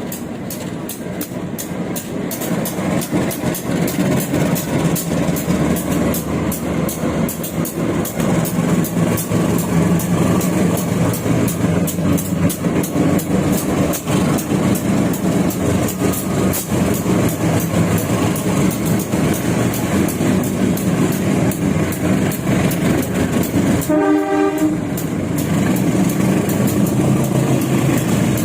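Train wheels running on the rails, heard through a passenger coach's toilet opening: a steady rumble with rapid clicking from the track, growing louder over the first ten seconds. About 24 seconds in, a brief horn note sounds.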